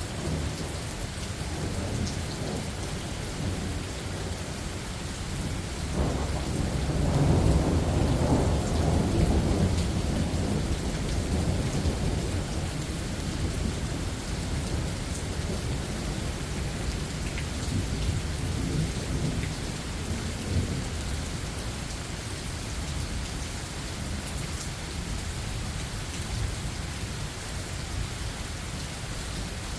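Steady rain falling with a low rumble of thunder that swells about six seconds in and slowly dies away.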